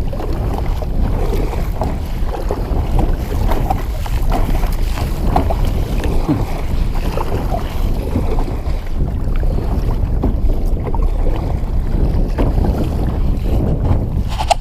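Gusty wind buffeting the microphone with a loud, steady low rumble, while choppy water splashes and slaps irregularly against a small kayak.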